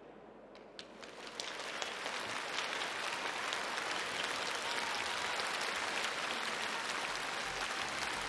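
Audience applauding: a few single claps, then applause that swells about a second in and holds steady.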